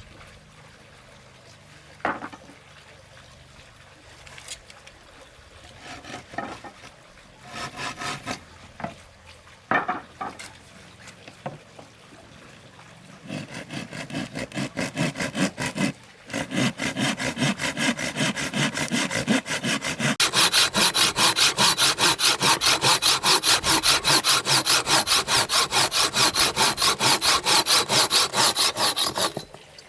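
Hand saw cutting through wood with quick, even strokes, about three or four a second, starting a little before halfway, growing louder and stopping just before the end. Before the sawing there are scattered knocks from wood being handled.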